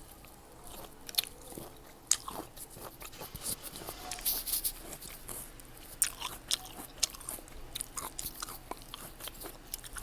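Close-up eating sounds: crisp fresh fruit bitten and chewed, with sharp crunching snaps about one, two and six seconds in and wet, crackly chewing between them.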